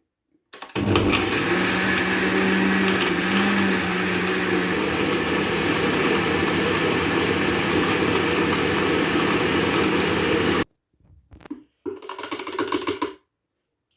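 Electric kitchen blender running steadily for about ten seconds, blending cooked tomatoes with pepper and onions, then cutting off suddenly. A few short bursts follow.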